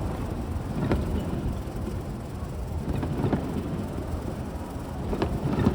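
Fireworks shells bursting: several sharp booms, one about a second in, a pair around three seconds and a pair near the end, over a continuous low rumble of echoing bursts.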